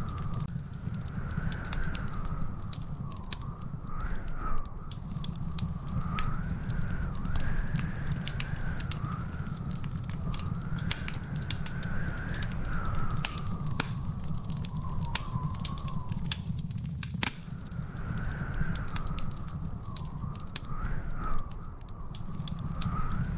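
Wood fire crackling in a fireplace, with frequent sharp pops over a steady low rumble. Behind it, a wavering whistle-like tone slowly rises and falls.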